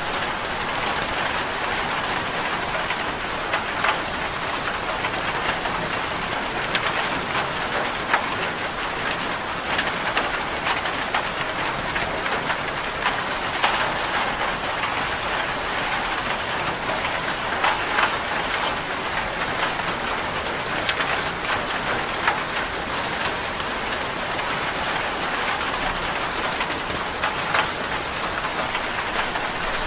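Steady rain falling, an even hiss with scattered sharper ticks at irregular moments.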